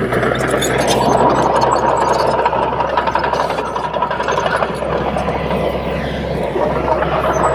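Komatsu D31P crawler bulldozer's diesel engine running under load, growing louder at the start and holding steady, with a dense clatter of many short clicks and knocks through it.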